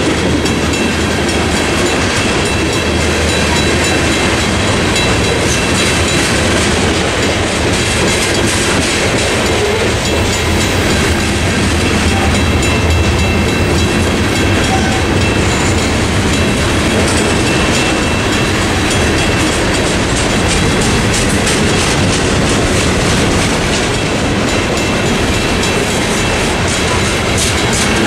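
Freight train cars rolling steadily through a road crossing, wheels clacking over the rail joints, with a Western Cullen Hayes mechanical crossing bell ringing at the active signal.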